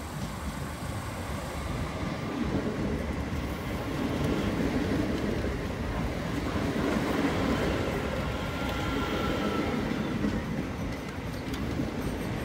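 A DART electric commuter train running close past a station platform: the rumble of wheels on rail and running gear, growing louder toward the middle as the cars go by.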